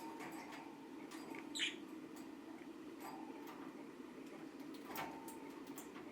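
Pet budgerigar making small clicks and taps, with one short, high chirp about one and a half seconds in, over a steady low hum.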